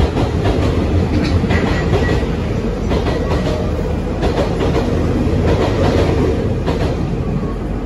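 Freight train of open wagons rolling slowly past, steel wheels clacking irregularly over the track joints over a steady rumble, growing a little quieter near the end.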